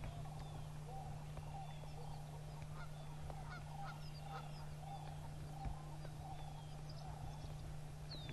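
Large birds calling in a slow, even series of short notes, about two a second, with small songbird chirps higher up and a steady low hum underneath.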